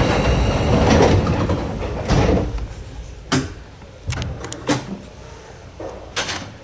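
Passenger train's doors closing before departure: a loud rush of air, then several sharp clunks and clicks as the doors shut and latch.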